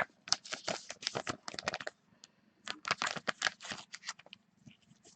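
Rapid, irregular light clicks, taps and rustles from close handling of trading cards and their packaging, in two clusters with a short pause between, over a faint steady hum.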